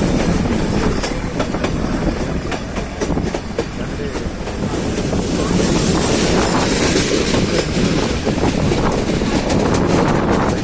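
Nilgiri Mountain Railway train running on the track, its wheels clattering steadily over the rail joints, a little louder from about halfway through.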